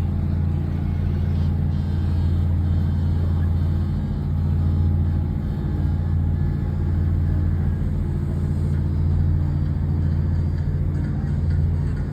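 A large engine running steadily, giving an even low drone.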